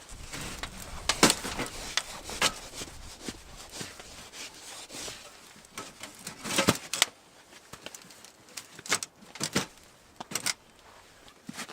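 Firewood being worked by hand: irregular sharp wooden knocks and cracks, about half a dozen, with some rubbing and handling of sticks in between.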